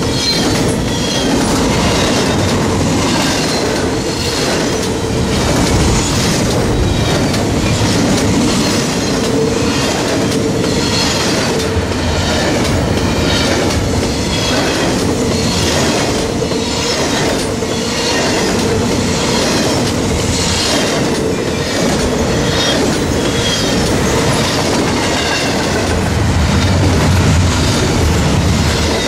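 Double-stack intermodal freight cars of a CN train rolling past at close range: loud steady rumble of steel wheels on rail, with clicks recurring about once a second as the wheels cross rail joints and a steady tone running through it.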